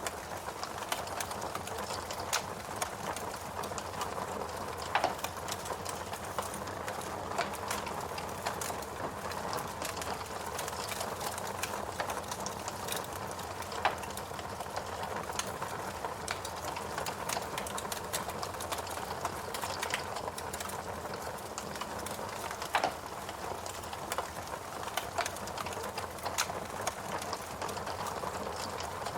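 Wood fire burning in a fireplace: a steady hiss with irregular crackles and a few sharper pops from the burning logs.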